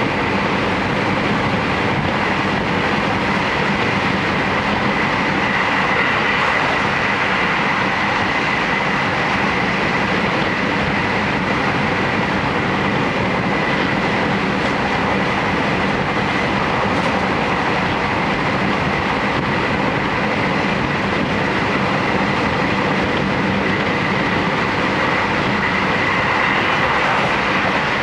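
Series 711 electric train running at steady speed, heard from inside the passenger car: an even rumble of wheels and rails with a faint steady high tone, and no change in pace.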